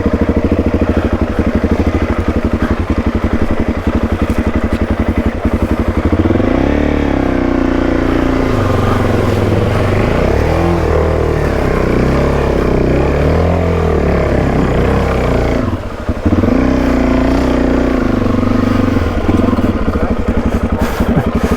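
Dual-sport motorcycle engine running, then revving up and down repeatedly under load as it is ridden through a rocky river crossing, with a brief drop in engine noise about sixteen seconds in before it steadies again.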